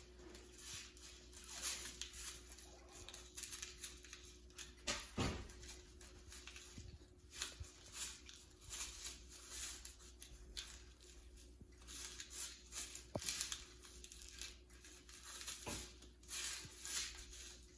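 Soft, repeated rustling and scraping of loose bird seed and a seed-coated cardboard toilet paper roll being handled, with a light knock about five seconds in.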